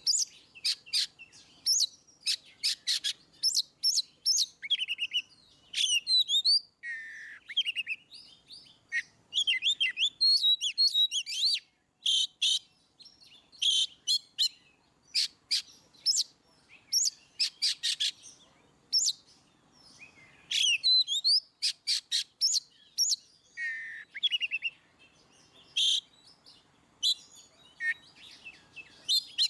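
Oriental magpie-robin (kacer) singing a loud, open 'ngeplong' song. Phrases of sharp whistled notes, quick runs of short notes and sliding whistles follow one another with brief pauses between them.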